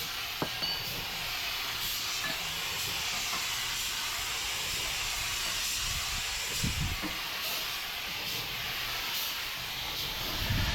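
A steady hiss, with a sharp click about half a second in and a couple of low knocks around seven seconds.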